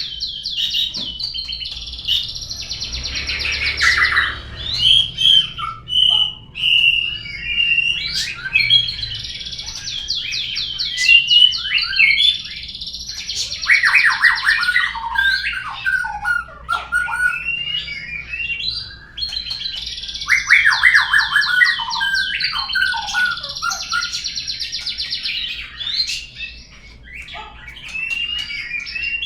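Recorded murai song played as a lure to set a murai bird singing: long phrases of rapid trills and chattering whistles, with a similar phrase coming round about three times.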